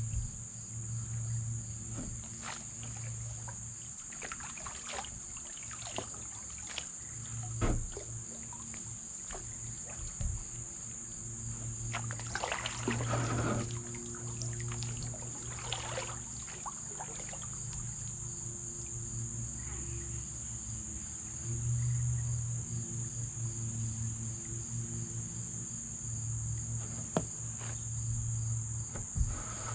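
Insects chirring in a steady high-pitched drone, with a few scattered knocks and splashes from paddling the kayak.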